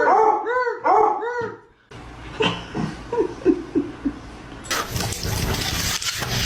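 A dog's whining cries: a run of short notes, each rising then falling, about three a second, then after a break a few short falling whimpers. Near the end a steady loud hiss of noise comes in.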